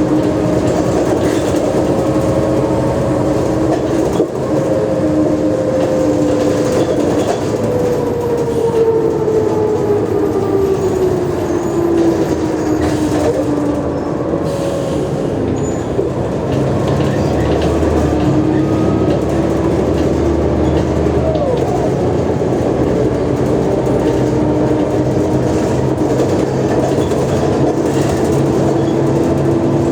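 Mercedes-Benz O345G articulated diesel bus running. Its whining tone falls in pitch over several seconds as it slows, a steady low drone comes in about midway, then the whine climbs again as it speeds up.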